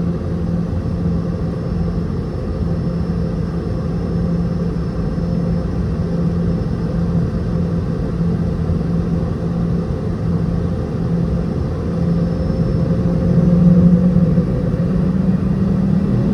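Boeing 717's rear-mounted Rolls-Royce BR715 turbofan engines running, heard from inside the cabin as a steady hum. The tone rises slightly in pitch and gets louder in the last few seconds as the thrust increases.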